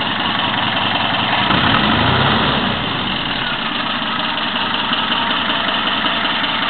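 ZMZ-402 inline-four petrol engine idling, with one brief rev about a second and a half in that falls back to idle.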